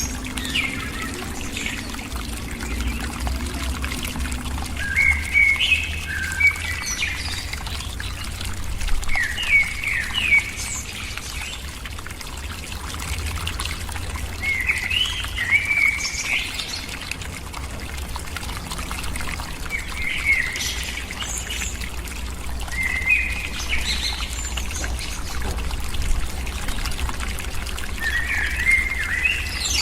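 A bird calling in short chirping phrases, repeated about every four to five seconds, over a steady wash of trickling, pouring water and a low rumble.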